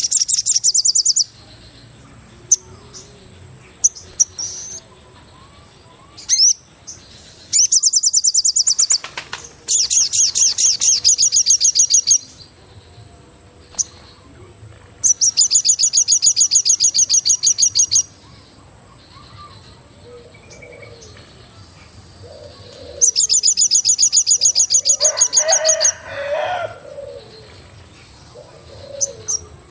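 A bird in forest giving loud, rapidly pulsed high trills in repeated bursts of two to three seconds, with pauses between them. Lower, softer calls come in near the end, and a faint steady high whine runs underneath.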